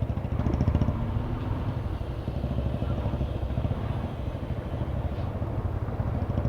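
Motorcycle engine running steadily while riding, its fast firing pulses low and even.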